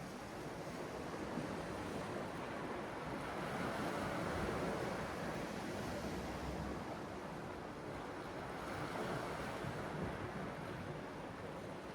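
Sea waves breaking and washing in, the surf swelling to its loudest a few seconds in and again briefly near the end.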